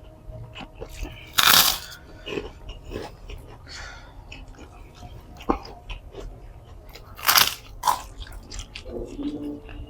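A person eating close to the microphone: irregular chewing and biting noises, with two louder crunchy bites, one about a second and a half in and one just past seven seconds.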